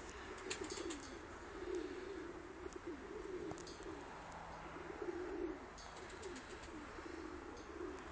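Domestic pigeons cooing: a near-continuous run of low, wavering, overlapping coos, with a few faint clicks.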